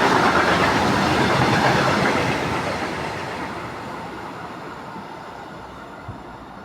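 Train hauled by an Akiem class 185 electric locomotive rolling along the rails. A steady rushing rumble with some wheel clatter fades away from about two seconds in as the train moves off.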